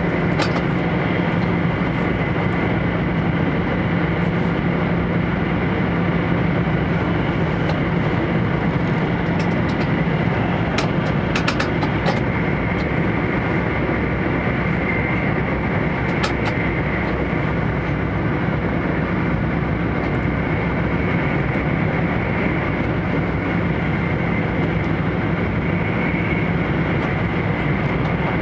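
E4 series Max Shinkansen running at speed, heard inside the upper-deck passenger cabin: a steady rumble and rush with a low hum and a faint high whine underneath. A few light clicks come near the middle.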